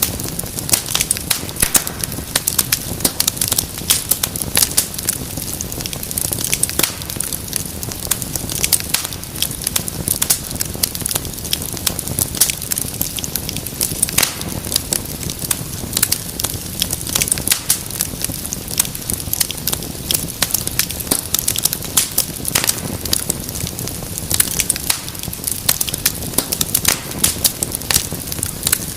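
Wood fire crackling steadily, with frequent sharp pops and snaps scattered irregularly over a low rumble of burning.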